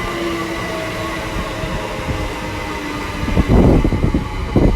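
TfL Rail class 345 electric multiple unit running into the platform, with a steady electric whine and rumble, then two louder rushing bursts near the end.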